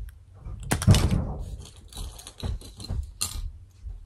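Small 3D-printed plastic figures being handled: a loud rustle about a second in, then a run of light clicks and knocks as the pieces are picked up and set down.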